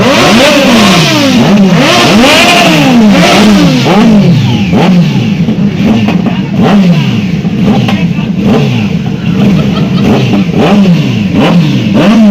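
Several superbike engines revved over and over, their pitch rising and falling in overlapping blips about once a second.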